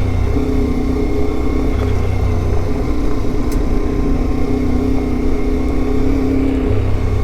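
CFMoto 450MT adventure motorcycle's parallel-twin engine running steadily while riding, its pitch shifting a little now and then with the throttle.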